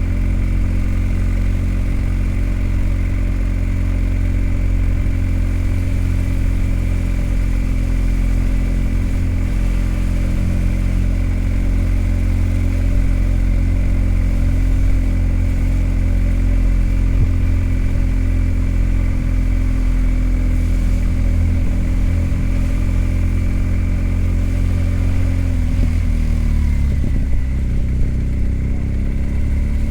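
BMW R 1250 GS Adventure's boxer-twin engine running at a steady cruise, with a heavy low rumble. Near the end its revs drop for a couple of seconds, then climb again.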